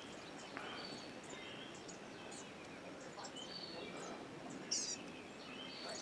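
Wild songbirds chirping and calling, many short high notes scattered throughout, with one louder call near the end.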